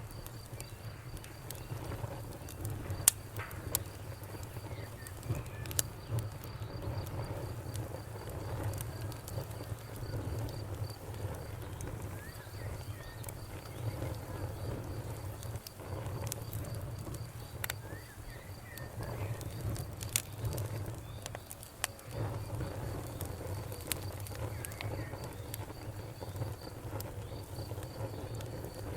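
Fire crackling, with sharp pops every few seconds over a low steady rumble.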